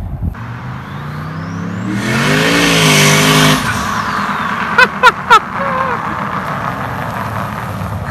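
Turbocharged LS V8 in a 1971 Chevrolet C30 truck revving: the engine note and a high turbo whistle climb together to a loud peak about three seconds in, then drop away. About a second later come three quick, sharp chirps, the loudest sounds here.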